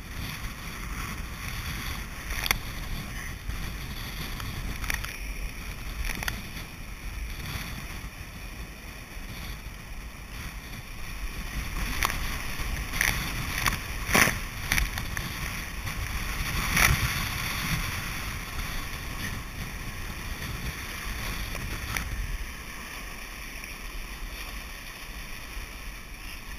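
Kayak out in rough surf: wind rumbling on the microphone and water washing and splashing around the hull, with a few sharp splashes or knocks, the loudest a little past the middle.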